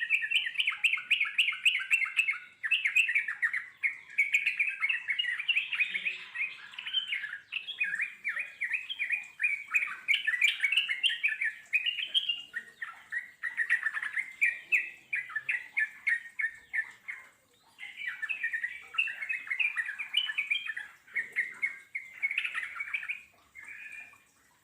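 Yellow-vented bulbul song: a long, fast run of bubbling, chattering notes (the 'ngeropel' song), going almost without a break apart from a few short pauses.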